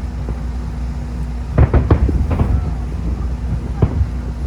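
Aerial fireworks shells bursting over a steady low rumble, with a cluster of sharper bangs around the middle and one more near the end.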